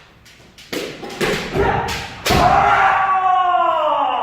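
Kendo sparring: several sharp clacks and thuds of bamboo shinai strikes and stamping feet on a wooden floor. About halfway in comes a long drawn-out kiai shout that slowly falls in pitch.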